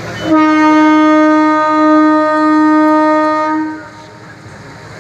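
Train horn sounding one long, steady blast of about three and a half seconds that starts suddenly and cuts off, over the running noise of the train.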